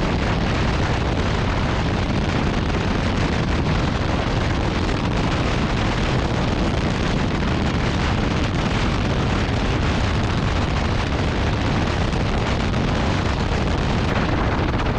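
Steady, heavy wind buffeting on the microphone of a moving motorcycle at highway speed.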